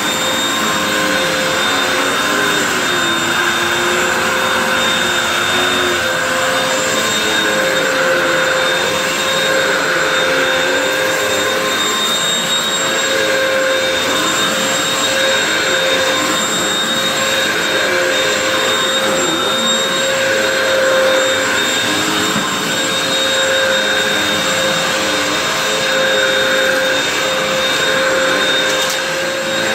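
Upright vacuum cleaner running, noisy: a steady motor whine over rushing air, with some lower tones wavering in pitch.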